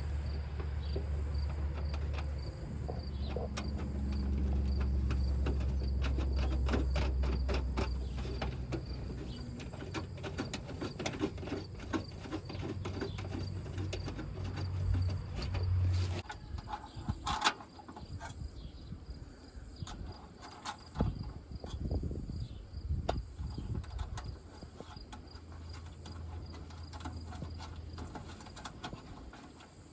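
Crickets chirping steadily over a low hum that stops about halfway through. Through the middle comes a fast run of small clicks and rattles from hand work on metal, thinning to scattered clicks afterwards.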